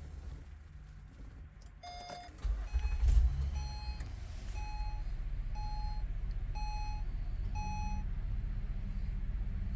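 Acura TL engine starting on a cold start: it catches about two and a half seconds in, flares up briefly, then settles into a steady idle. Five even beeps from a dashboard warning chime sound over it, about one a second.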